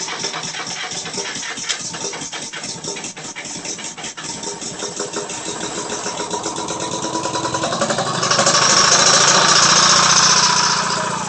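Lincoln SAE-400 welder-generator's two-stroke two-cylinder engine on a cold start, firing in a rapid, even chatter. It gets louder about eight seconds in, holds there for a couple of seconds, then eases off near the end.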